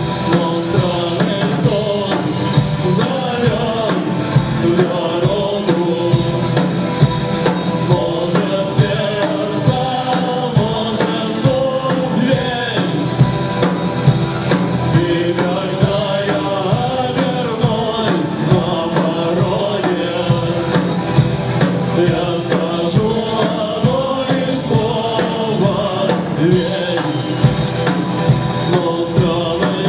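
Live band playing a rock song: a steady drum-kit beat with bass drum and snare under a wavering melodic line.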